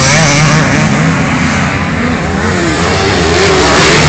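Motocross bike engines running loud and continuous, revving up and down as the bikes race over the track.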